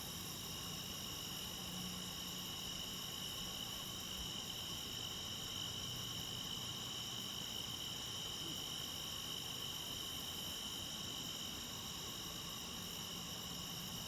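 A chorus of crickets and other insects, several steady high trills at different pitches, continuing without a break.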